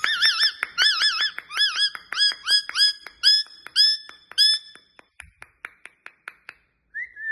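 A parrot whistling a run of warbling notes, wavering at first and then short upswept chirps, over rapid regular clicking about four times a second. The notes fade out about five seconds in, and one falling whistle comes near the end.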